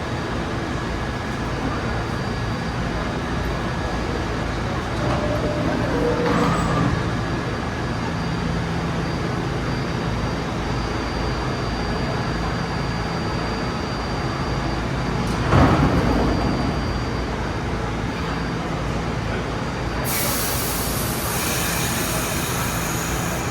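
Subway train at a station platform, with a steady rumble. A sharp hiss like an air brake comes about two-thirds of the way in, and a steady high hiss starts near the end.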